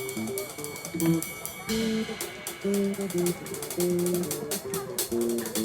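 Live band playing a passage during a sound check: a line of short low notes over drums and cymbal hits.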